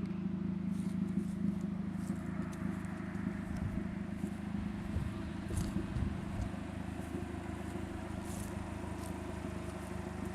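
Turbocharged Honda CRX's D15B2 four-cylinder engine running at a steady pitch, with no revving, and a few faint light clicks over it.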